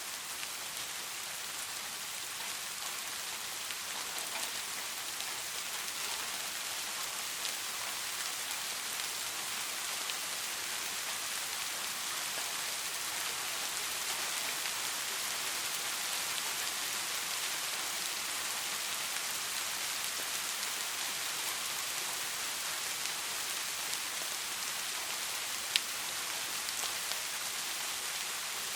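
Steady rain falling on a surface, an even hiss weighted toward the highs, with one sharp tick near the end.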